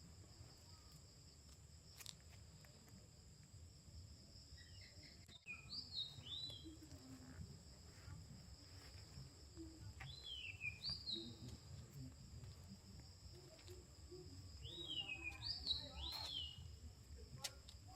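Faint evening insect chorus, a steady high-pitched trill in two pitches, with a bird giving short downward-slurred calls in small clusters three times, about five seconds apart. A low rumble and a few clicks lie underneath.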